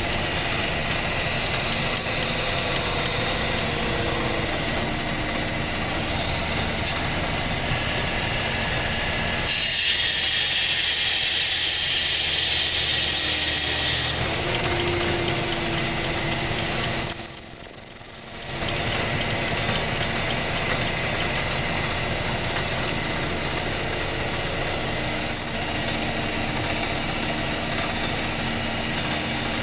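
A power tool's electric motor running steadily, getting louder and hissier for several seconds about ten seconds in.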